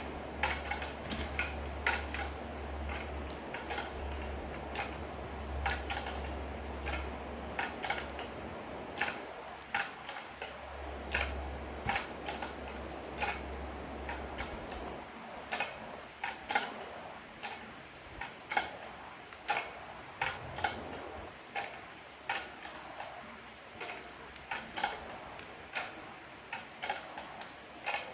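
A string of sharp metallic ticks and knocks, roughly one a second, from hand work on a fallen tree's roots. A low rumble underneath stops about halfway through.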